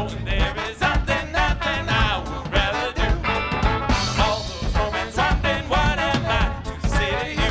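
Funk band playing live with a steady beat: drums, electric bass and a horn section.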